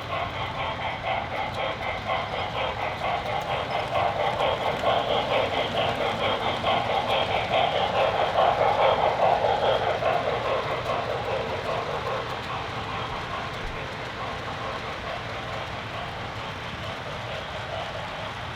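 An HO scale model train of tank cars rolling along the track, its wheels clicking steadily over the rail joints. It grows louder as it passes close, then fades as it moves away.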